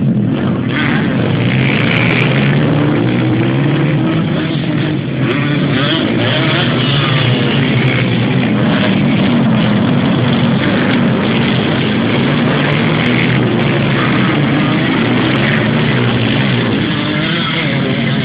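Motocross bike engines running hard and revving, their pitch rising and falling as the bikes race on the sand track.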